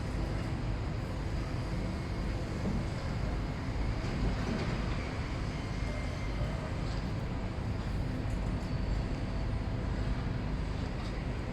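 A steady low rumble of running heavy machinery, with a faint steady hum.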